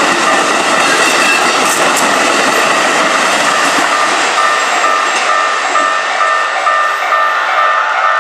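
Keikyu electric train running over the level crossing, its rumble and rushing noise thinning out about six seconds in. Over it, the crossing's warning bell rings in a quick even rhythm of repeating tones, clearer once the train noise falls.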